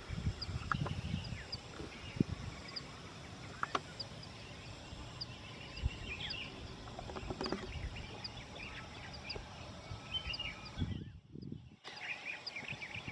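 Birds chirping and twittering on a mountain slope, one repeating a short high note about twice a second, with wind gusting on the microphone. The sound drops out abruptly near the end.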